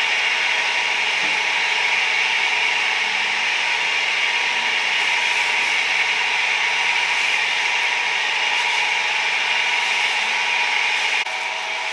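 A steady, loud hissing, rasping noise that changes abruptly near the end.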